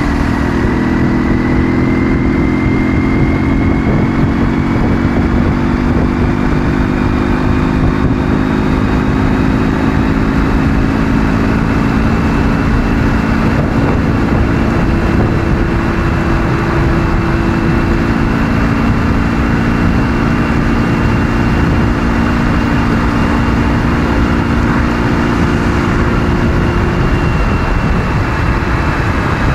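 Ural motorcycle's 650 cc flat-twin engine running at a steady cruise, with heavy wind and road noise and a thin high whine that rises slowly over the first half and then holds. The engine's pitched note fades a few seconds before the end.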